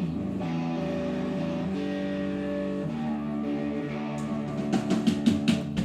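Live band: an electric guitar holding sustained chords and notes, with drums coming in with quick, steady hits near the end.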